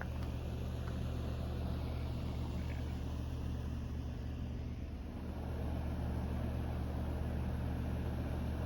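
Steady low drone of an engine running at idle.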